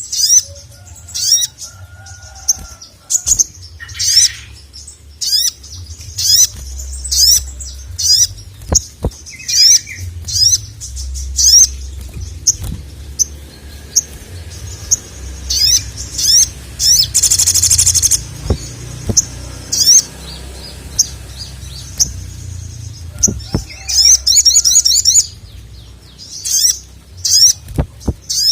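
Brown-throated sunbird (sogok ontong) singing a lively song of quick, sharp high chirps in irregular bursts. A dense buzzy trill comes about halfway through. The song is a caller meant to rouse males to sing.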